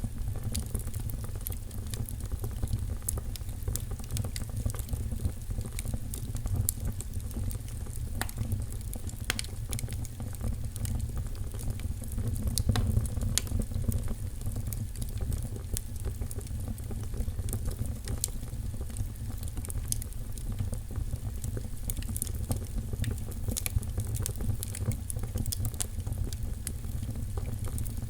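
Wood fire in a fireplace crackling steadily, with frequent sharp pops and snaps over a low rumble of the burning.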